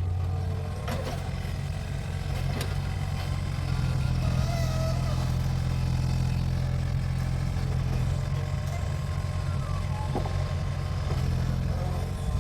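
Mini excavator's diesel engine running at a steady pitch while it digs, with a few sharp metallic knocks from the bucket and arm.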